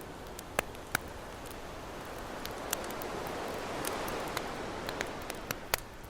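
Campfire crackling with scattered sharp pops over the wash of ocean waves; a wave swells up and breaks around the middle, then recedes.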